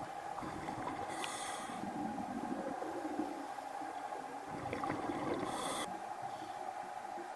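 Two short hissing breaths about four seconds apart over a steady faint hum.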